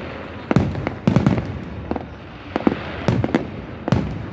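Fireworks going off: about seven sharp bangs at irregular intervals, each trailing off in a low rumbling echo.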